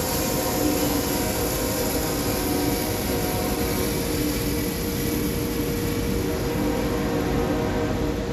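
Sawmill's engine running steadily under load while the saw blade cuts through a log.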